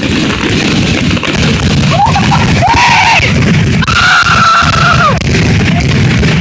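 Fireworks finale going off overhead as a dense, continuous rumble of bursts, with people cheering. Two long held "woo" whoops rise above it about two and four seconds in.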